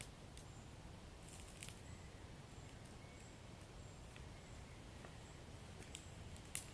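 Wood fire in a fireplace crackling softly: scattered sharp pops and snaps over a low steady rumble, with faint brief hissing, and the loudest pop just before the end.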